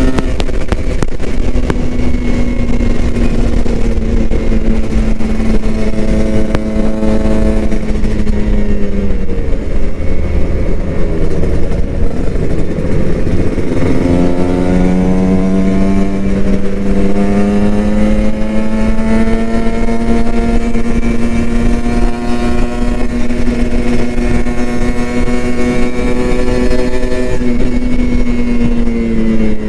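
Kawasaki Ninja RR 150's two-stroke single-cylinder engine running hard under way. Its pitch sags slowly over the first eight seconds and falls away as the throttle is eased about nine seconds in. It climbs again from about fourteen seconds and holds high, easing slightly near the end.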